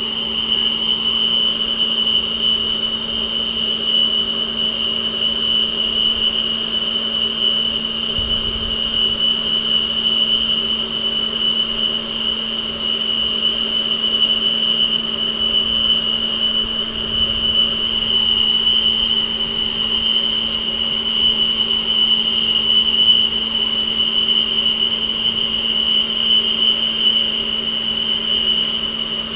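A steady hum with a constant high-pitched whine over it, unchanging throughout.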